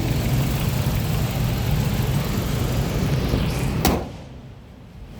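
A steady low rumble, then a single sharp thud, typical of a car door shutting, about four seconds in, after which the sound is much quieter.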